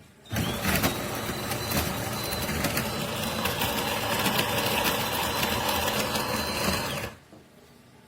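De'Longhi Rivelia's built-in burr grinder grinding coffee beans for an espresso shot, a steady motor noise full of fine crackling. It starts suddenly about a third of a second in and cuts off about seven seconds in.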